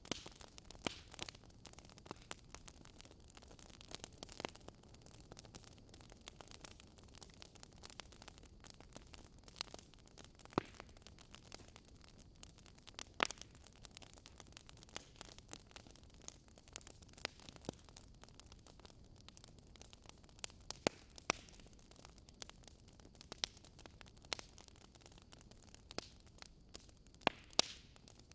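Wood fire burning in a fireplace: a soft steady hiss with sharp crackles and pops at irregular intervals, a few louder pops about halfway and near the end.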